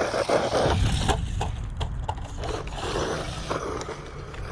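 Small electric Arrma Grom RC cars driving over rocks: their motors whir while tyres and chassis scrape and knock against the rock, with several sharp knocks in the first two seconds.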